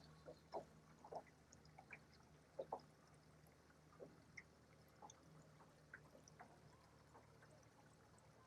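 Near silence: faint scattered drips and small laps of water, a few soft splashes spread irregularly, over a faint steady low hum.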